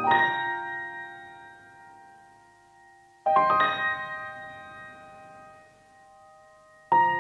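Background piano music: slow, soft chords struck about every three and a half seconds, each left to ring and fade away.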